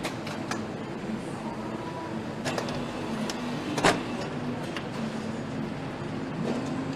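Motorcycle assembly-line ambience: a steady machinery hum with scattered sharp clicks and knocks from tools and parts, the loudest one just under four seconds in.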